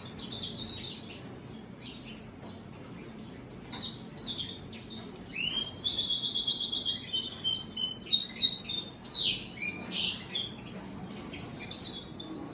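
European goldfinches chirping and twittering: a few scattered calls at first, then a busy stretch of overlapping chirps and rising notes with a quick trill about six seconds in, thinning out again near the end.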